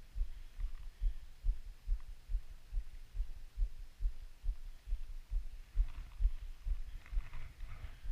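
A regular run of dull, low thumps, about two a second, with faint rustling near the end.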